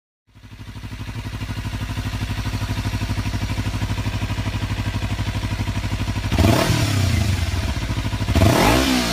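Twin-cylinder engine fading in at a steady, evenly pulsing idle, then revved twice, about six and eight seconds in, the pitch rising and falling each time.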